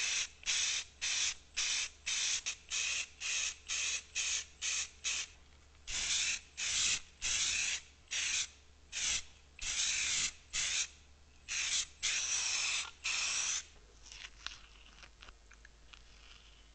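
Spray paint hissing in short repeated bursts as black paint is laid onto a cast-iron arbor press frame and its parts. The bursts come quickly at first, then some are held for up to about a second, and they stop a few seconds before the end.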